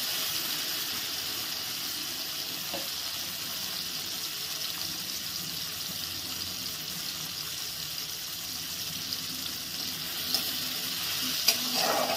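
Chopped tomato and salt frying in hot mustard oil in a kadai, a steady sizzle. Near the end come a few sharp clicks and scrapes as the spatula stirs the pan.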